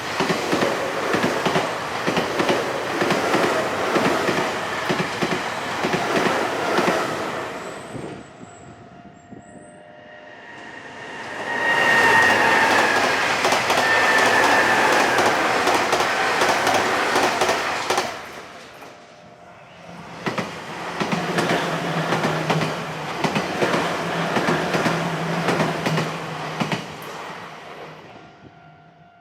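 Nankai Main Line electric trains passing over a railroad crossing, three passes in a row, wheels clattering rapidly over the rail joints. The middle pass carries a falling whine; the last carries a steady low hum.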